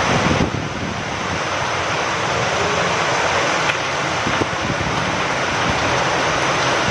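Steady rain with wind: a continuous hiss of falling rain, with a few faint ticks of drops striking nearby surfaces.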